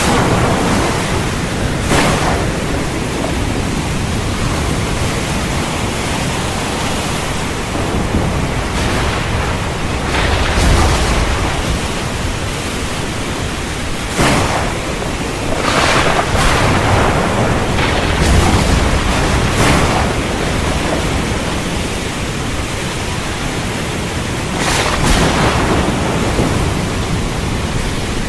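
Heavy rain pouring steadily, with thunder: several sharp cracks and a couple of low rolling rumbles come through the rain.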